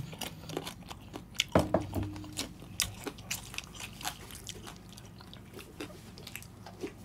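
A person chewing a mouthful of mango and sauced chicken feet, with many small crisp crunches and wet mouth clicks.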